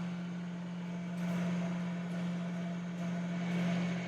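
A sailboat's engine running steadily, a low even hum, over a wash of wind and water noise.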